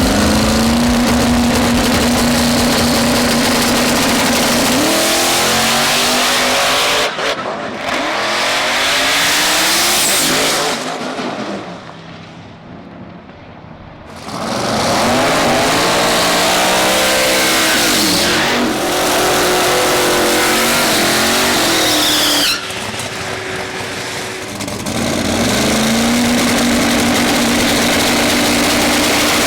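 Twin-turbo Fox-body Mustang drag car with a 481X Proline V8 racing engine, revving hard. It holds a steady high-revving tone, then rises and falls in pitch across several abrupt cuts, with a quieter stretch about halfway through.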